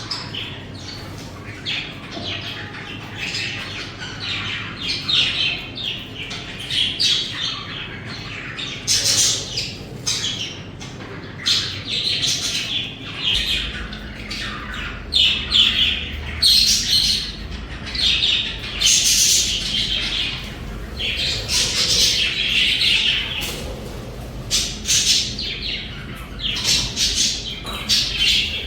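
Budgies (budgerigars) chattering and chirping continuously, a dense run of short high calls and squawks, with a low steady hum underneath that gets louder about halfway through.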